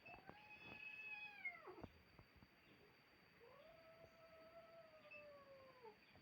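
Cats caterwauling in a fight standoff: two faint, long, drawn-out yowls, the second starting about three seconds in, each dropping in pitch as it ends. It is the threatening yowl of cats squaring off before or between bouts of fighting.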